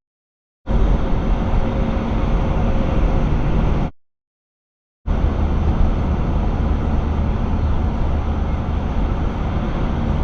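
Steady road and engine noise of a moving vehicle, heard through a dashcam's microphone. It begins after a moment of dead silence and drops out completely for about a second near the middle before carrying on.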